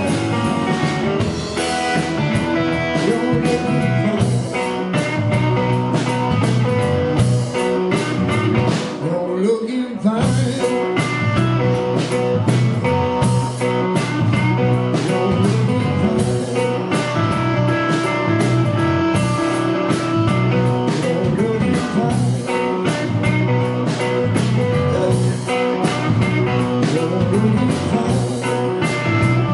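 Live rock band playing a blues-rock song with guitar and drums. About nine seconds in the drums drop out briefly and a note glides, then the full band comes back in.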